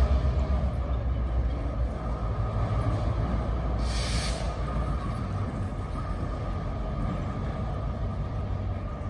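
EMD GP38-3 diesel locomotive rumbling as it works, its low engine sound gradually fading, with a short hiss of air about four seconds in.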